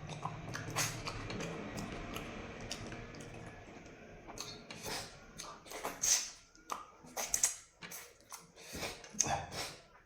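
Close-up eating sounds: crunching and chewing of food, with a run of sharp, irregular crunches in the second half over a steady low hum.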